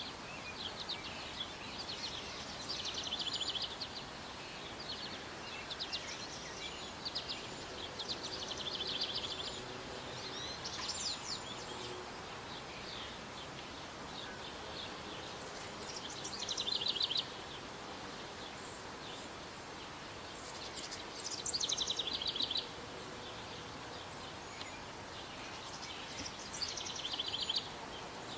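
A bird singing short, high-pitched phrases of rapid repeated trilled notes every few seconds, over a steady outdoor background hiss.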